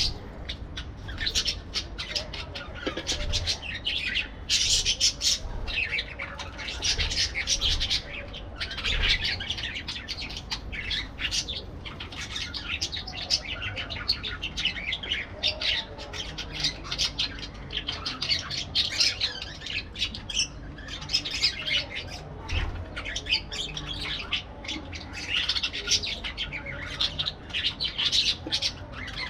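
Several parakeets chattering and calling, with many short, overlapping chirps and squawks and no break.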